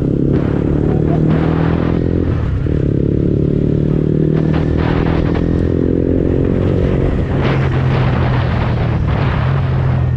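KTM 125 Duke's single-cylinder four-stroke engine running steadily under way at town speed, heard from on the bike, with wind noise over the microphone. The engine note breaks briefly about two seconds in and changes again around seven seconds in, as the rider works the throttle.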